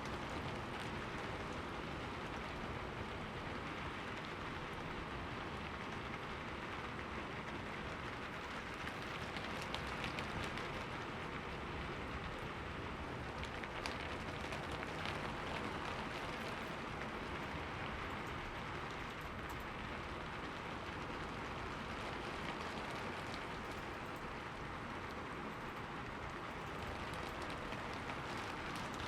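Steady rain falling: an even hiss with scattered sharper drop sounds.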